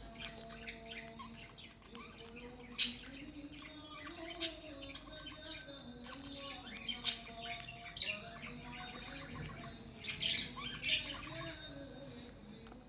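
Budgerigars chirping and chattering, with a few sharp louder calls and a busier burst of loud calls near the end.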